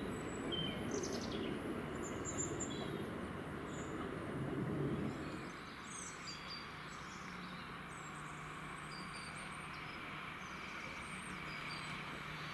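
Rumble of a Southern Class 377 electric multiple unit running away along the track, cutting off abruptly about five seconds in. Small birds chirp throughout, and after the cut a faint steady hum remains.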